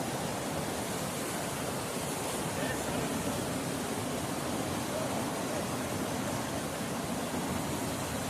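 Steady rush of a fast-flowing mountain stream, an even hiss with no breaks.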